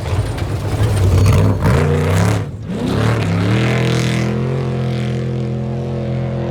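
Off-road race truck engine revving hard as it passes, rising in pitch, dropping off sharply for a moment about two and a half seconds in, then climbing back and holding high, steady revs.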